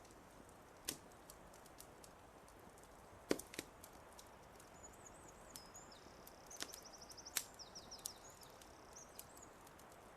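Faint wood fire crackling with scattered sharp pops, the loudest about three seconds in, over a soft steady hiss. A small songbird sings a high, trilled song from about five to nine seconds in.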